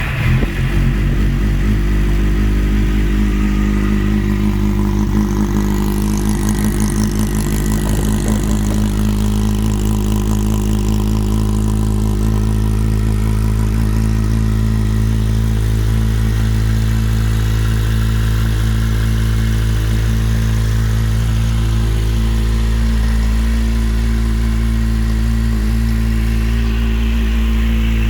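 Kawasaki Z750's inline-four engine idling steadily through a Delkevic aftermarket exhaust, just after start-up.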